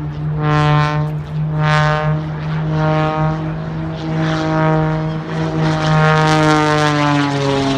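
Wolf Pitts Pro aerobatic biplane's piston engine and propeller running hard in an aerobatic display. The note swells and fades about once a second at first, then its pitch slides slowly down near the end.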